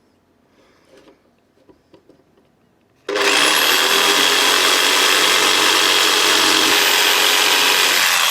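Faint handling clicks, then about three seconds in a handheld power tool starts abruptly and runs steadily at full speed. Its high motor whine climbs as it spins up, then holds.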